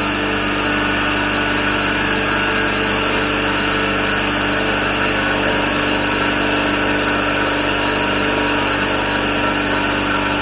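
Shop air compressor running steadily and loudly, with a constant motor drone and hum; it cuts off just after the end. It is cycling on because of a leak in the air system.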